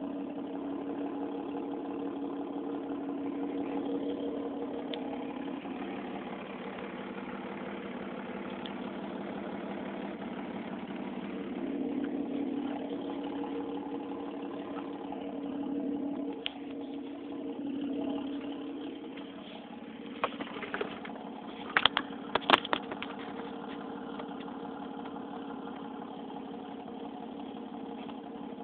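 1992 Dodge Dakota's 3.9 V6 idling steadily through an exhaust with no catalytic converter and a glasspack muffler, swelling slightly a few times around the middle. A few sharp clicks or knocks come about two-thirds of the way through.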